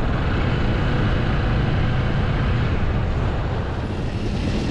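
Honda Rebel 300's single-cylinder engine running while the motorcycle rides along, mixed with a steady rush of wind and road noise.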